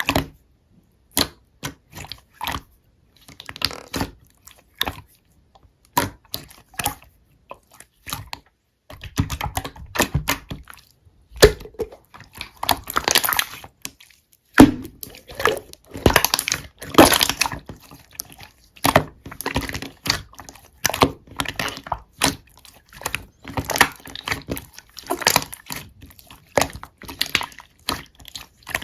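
Slime being squished and pressed by hand, with irregular wet clicks and crackling pops that come thicker and louder from about a third of the way in.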